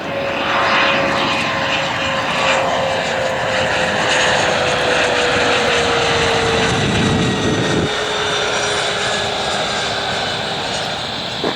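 Airliner's engines passing close by as it moves along, a loud steady rush with a single tone that slowly falls in pitch. The deep part of the noise cuts off sharply about eight seconds in.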